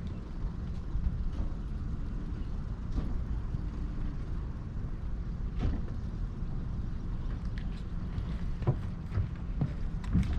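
Towboat's engine running steadily at low speed, a low rumble, with a few scattered knocks of the boats' hulls and fittings.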